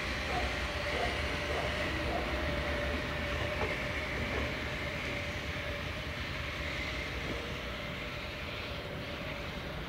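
Train running along the line: a steady rumble with a steady tone and a few faint clicks in the first half, slowly growing quieter toward the end.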